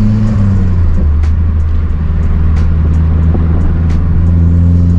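Mazdaspeed 3's turbocharged 2.3-litre four-cylinder engine running steadily through its aftermarket cat-back exhaust, with a shift in engine pitch just under a second in, then a steady drone. A few faint ticks sound over it.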